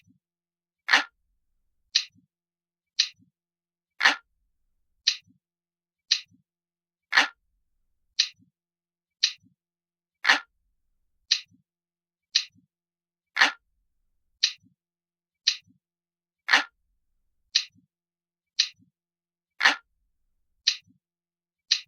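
Clock ticking steadily, about one tick a second, with every third tick deeper and fuller than the two lighter ticks between.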